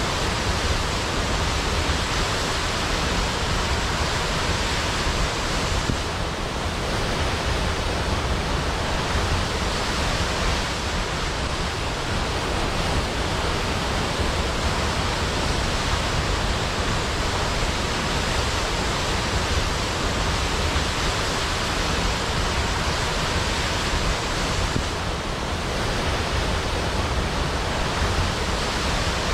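Waterfall: a steady, dense rush of falling water pouring into a pool, with no breaks.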